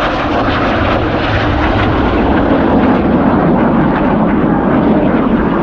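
Jet noise of Red Arrows BAE Hawk T1 jets flying past low and fast, a loud steady rush that builds slightly through the pass.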